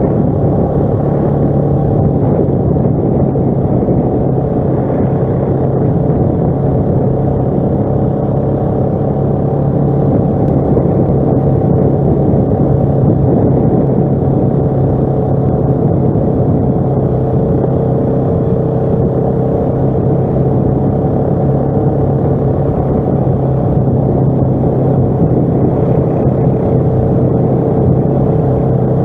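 ATV engine running steadily under way, its pitch nearly even.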